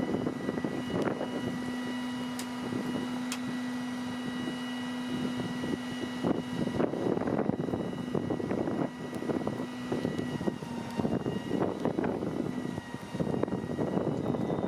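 Peterbilt crane garbage truck working: a steady mechanical whine over irregular rattling and clattering. The whine drops away about eleven seconds in.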